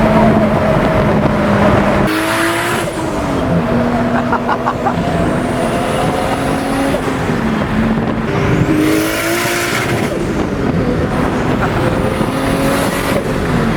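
Turbocharged Supra with a 4-inch straight-pipe exhaust driving, its engine pitch rising and falling several times as it accelerates and shifts. A faint high whistle climbs along with each rise.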